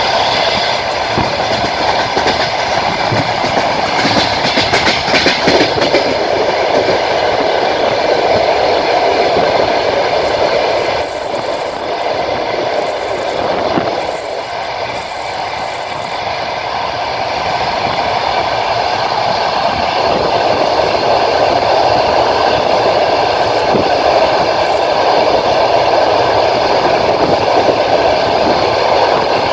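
Passenger train running along the line, heard from a carriage window: the steady rumble and clatter of the wheels on the rails, dipping quieter for a few seconds midway.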